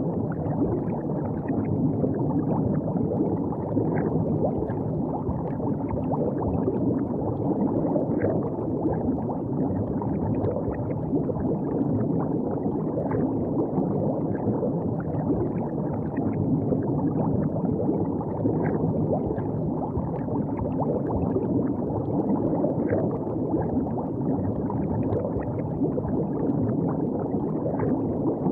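River water flowing and gurgling steadily, with small splashes scattered throughout.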